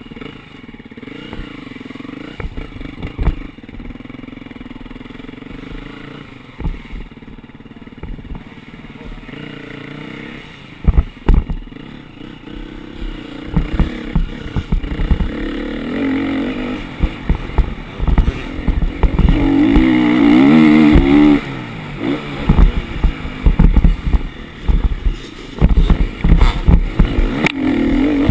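Motocross dirt bike engine running and revving up and down, fairly steady for the first ten seconds or so, then louder with repeated rises in pitch. Sharp knocks and clatter come through the engine sound, thickest in the second half.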